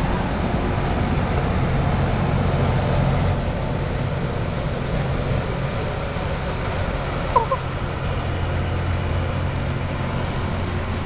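Heavy diesel rail equipment running with a steady low rumble and hum, with a brief double chirp about seven seconds in.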